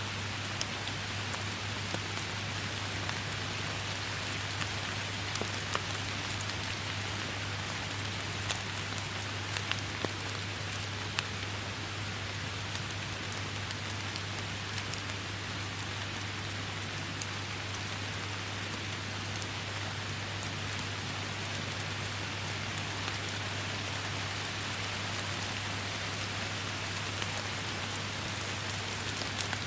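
Steady rain falling, a dense even hiss sprinkled with many sharp ticks of individual drops. A steady low hum runs underneath.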